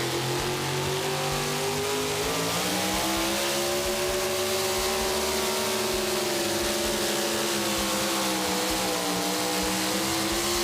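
Super modified pulling truck's engine at full throttle under load during a pull. Its pitch climbs about two seconds in, then holds high and steady with a slight sag near the end.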